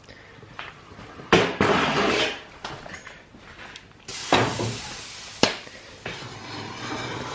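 Knocks and clatter of a pot and the iron wood cook stove being handled as the pot is set on the stovetop. Two of the knocks are each followed by about a second of hissing, then a sharp click and a steadier hiss near the end.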